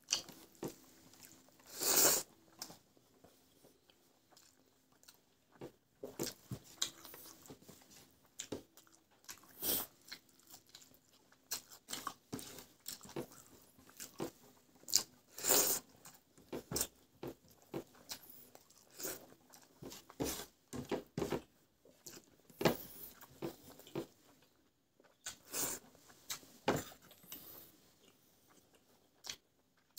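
A person chewing food close to the microphone: irregular crunches and mouth smacks.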